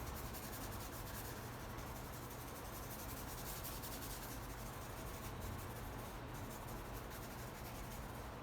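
Paintbrush brushing and dabbing white paint on a canvas, blending it in: a faint, steady brushing.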